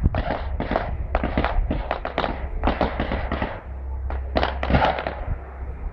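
Firework display: a rapid barrage of bangs and crackles going off in quick succession, many overlapping.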